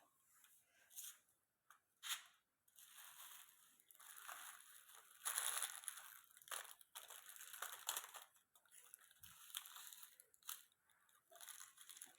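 Faint crunching and crinkling of wrapped candies being handled, in irregular short bursts.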